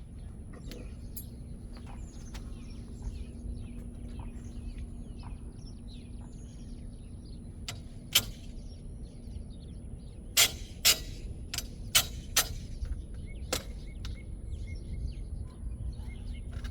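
A handful of sharp metal clanks in the second half, from steel trailer-hitch parts being fitted into a truck's hitch receiver. Underneath is a steady low outdoor rumble, with birds chirping.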